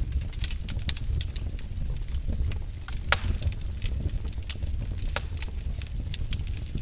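Wood fire burning in a fireplace: a steady low rumble of flames with irregular sharp crackles and pops, the loudest pop a little past three seconds in.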